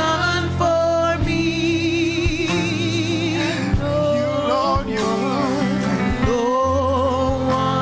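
Gospel worship song: a singer with strong vibrato over sustained keyboard chords and a steady drum beat.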